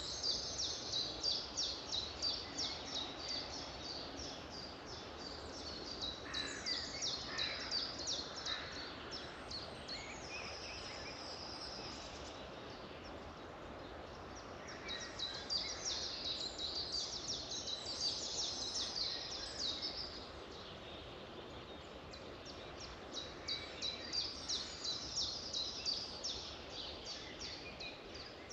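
Songbirds singing in bouts of rapid, repeated high notes over a steady background hiss, with a quieter stretch in the middle and the singing picking up again near the end.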